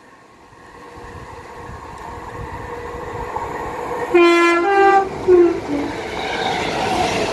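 Northern Class 769 unit approaching and running through the station, its rumble building steadily. About four seconds in it sounds its horn, a few short blasts at two or more pitches.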